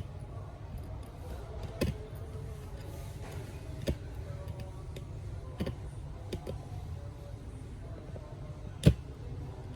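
Scattered sharp clicks and taps, about five, the loudest near the end, as small metal parts and tools are handled while reassembling a smartphone, over a steady low hum.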